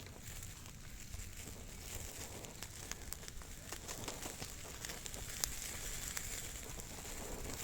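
Irregular light clicks and crackles over a steady low rumble.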